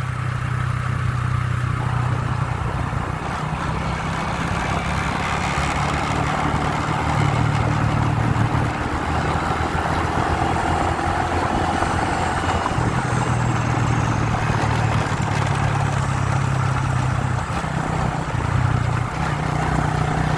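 Motorbike engine running steadily while being ridden, its low hum fading and returning a few times over a constant rush of noise.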